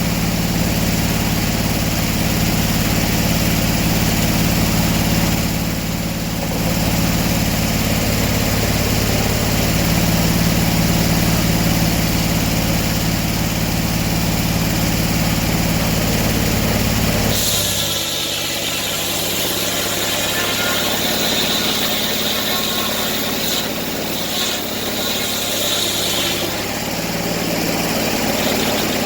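An engine running steadily with a low hum; about seventeen seconds in the low hum falls away and a higher, hissing whine takes over.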